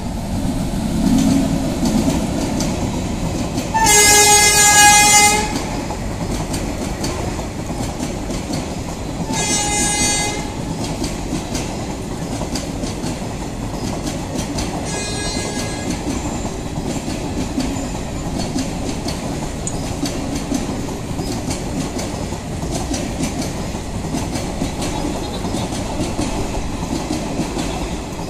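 Passenger train rolling slowly over a level crossing, its wheels rumbling and clacking on the rails. A train horn sounds three times: a long loud blast about four seconds in, a shorter one near ten seconds, and a fainter one around fifteen seconds.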